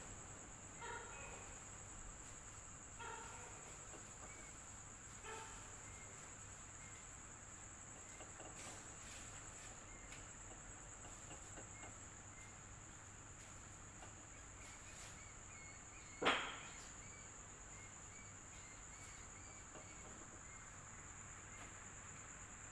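Crickets trilling steadily in a high continuous band over the low, steady hum of an electric fan. A few short faint calls come in the first several seconds, and a single sharp click about two-thirds of the way through is the loudest sound.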